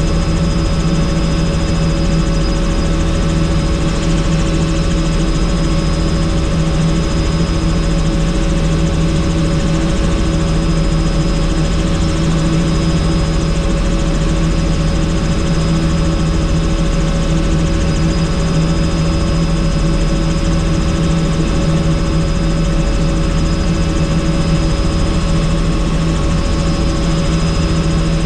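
Helicopter in flight heard from on board: a loud, steady drone of rotor and engine with a constant low hum and a thin high whine.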